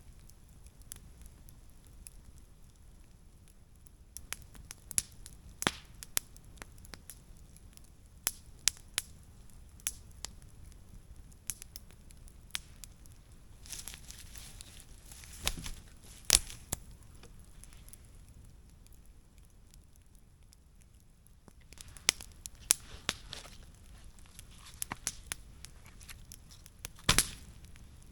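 Wood campfire crackling, with sharp pops and snaps at irregular intervals; a few louder snaps come about halfway through and near the end.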